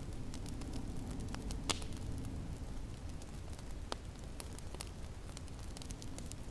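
Wood fire crackling in a fireplace: scattered sharp pops and snaps over a steady low rumble, which the snowstorm wind outside may also feed. The sharpest pops come about a second and a half in and again near four seconds.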